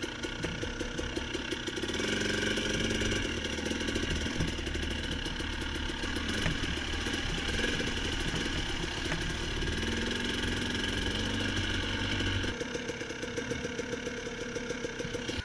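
Dirt bike engine running with a fast, even pulse. It gets louder about two seconds in as throttle is added and eases back near the end.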